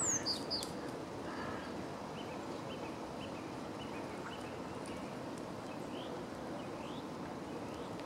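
Small songbirds calling: a loud, high call sweeping downward right at the start, then two short high notes, then faint scattered chirps, over a steady background hiss.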